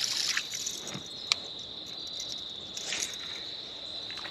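Steady high-pitched insect chorus, crickets trilling without a break, with one sharp click about a second in.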